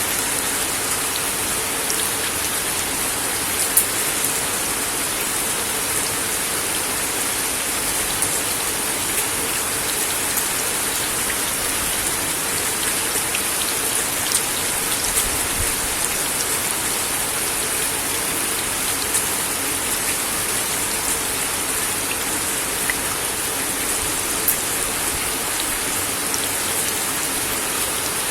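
Steady rain falling on a wooden deck: an even hiss with scattered sharper drop taps.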